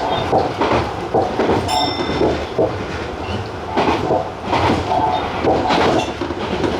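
Tobu TJ Liner electric train running at speed, heard from the front of the train. A steady rolling rumble is broken by repeated clusters of wheel clatter over the rail joints.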